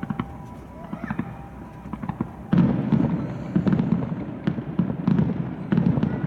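Aerial firework shells bursting: a few scattered pops, then about two and a half seconds in a sudden, louder barrage of rapid bangs and crackling that keeps going.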